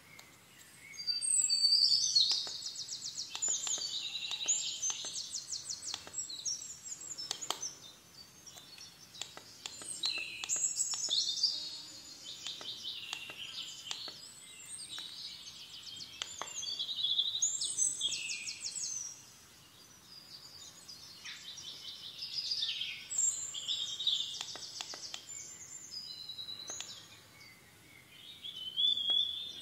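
A songbird singing high, warbling phrases full of fast trills, in several spells separated by short pauses. A few faint clicks sound beneath the song.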